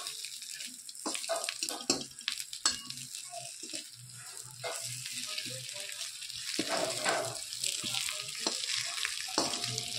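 Oil sizzling steadily in a pan as besan-stuffed green chillies fry on low heat, with scattered clicks of a spatula turning them.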